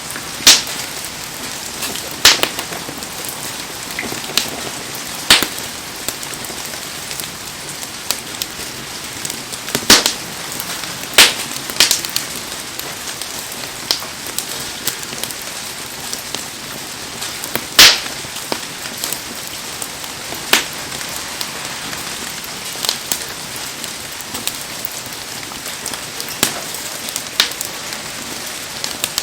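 Heavy rain falling steadily, with a wood bonfire giving sharp pops and crackles at irregular intervals, a dozen or so over the stretch.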